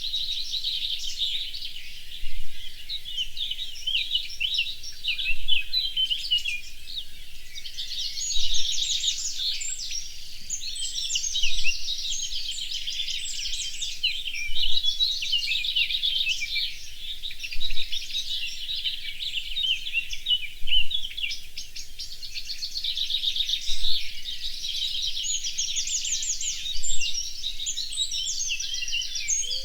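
Birdsong: several birds singing at once in a dense chorus of chirps and trills, with a louder song phrase coming back about every three seconds.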